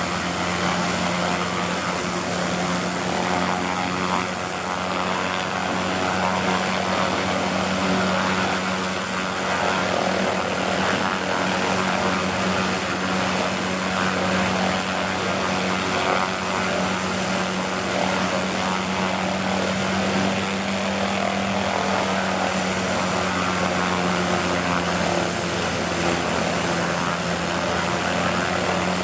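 MD530FF helicopter's Allison 250 turboshaft and rotor running steadily, a constant high turbine whine over the rotor and engine roar.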